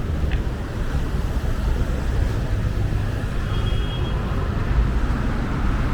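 Steady low rumble of city traffic noise, with a short high-pitched beep about three and a half seconds in.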